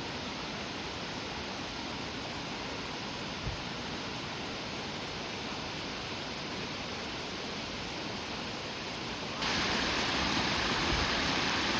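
Steady rushing noise of falling water, which jumps louder all at once about nine seconds in.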